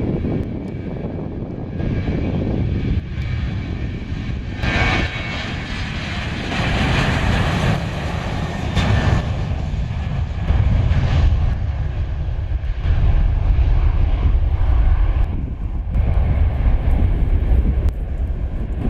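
Boeing 737-800's CFM56-7B jet engines at takeoff thrust: a deep rumble, with a brighter roar and hiss swelling about five seconds in and easing off around ten seconds, while the low rumble carries on.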